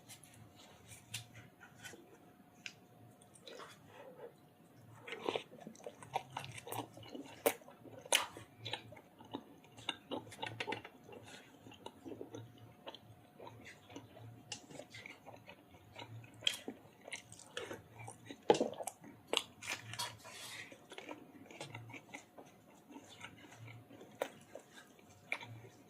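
Close-miked eating sounds of a person chewing and biting chicken curry with roti and rice: irregular wet clicks and smacks of mouth and food, louder in bunches.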